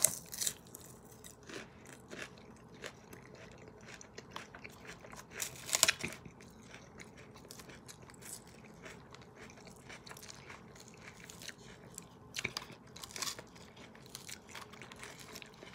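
Close-up chewing of crisp lettuce salad: a run of wet crunches, with louder crunches at the start, about six seconds in and around thirteen seconds.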